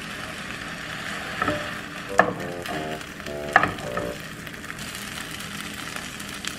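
Shredded cheese and a burrito sizzling steadily in a hot nonstick pan, with sharp taps of a wooden spatula against the pan, the loudest about two seconds in and again about three and a half seconds in.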